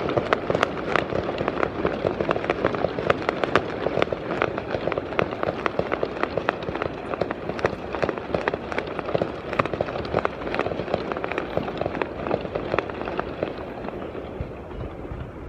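Fireworks display with a dense run of small fireworks going off as rapid, sharp crackling pops, several a second, thinning out and getting quieter over the last few seconds.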